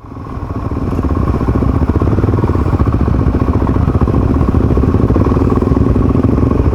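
Motorcycle engine running on the move, a steady rapid pulsing that builds over the first second or so and then holds.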